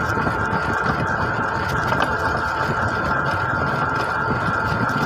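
An engine running steadily, a constant low rumble with a steady whine above it.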